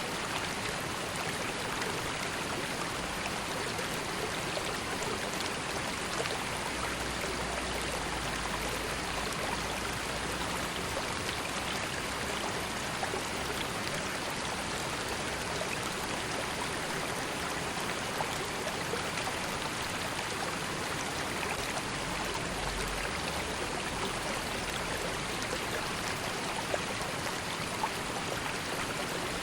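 River water running and babbling over stones in a steady wash, with small splashes and drips here and there.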